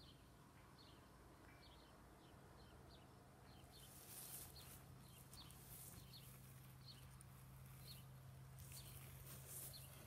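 Faint bird chirps outdoors: short, high calls repeating every half second to a second, over a low steady hum. A faint airy hiss joins about four seconds in.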